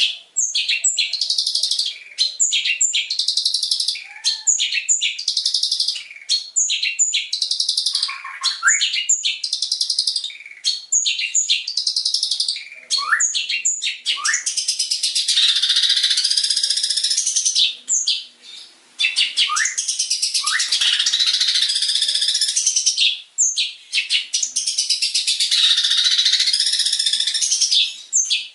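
Long-tailed shrike (cendet) singing a fast, dense song of rapid-fire chattering notes, rattles and quick downward-sliding whistles, with mimicked phrases of other birds worked in. The song breaks off briefly every few seconds.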